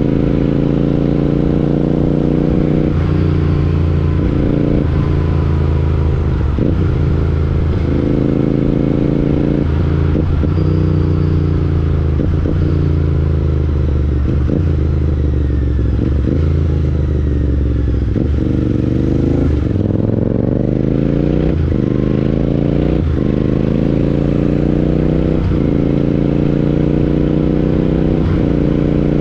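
Royal Enfield Interceptor 650's parallel-twin engine running loud through an aftermarket Chris Michael exhaust while riding. The pitch climbs and drops back at repeated gear changes, sinks through a slower stretch in the middle, and climbs steeply again about two-thirds in before more shifts.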